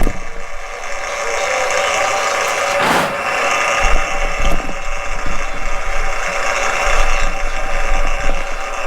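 Electric drain snake motor running steadily, with a brief swell about three seconds in and some low knocks a little later.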